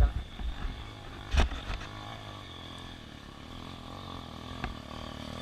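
Off-road vehicle engine running steadily, with rumbling thumps at the start and a sharp knock about a second and a half in.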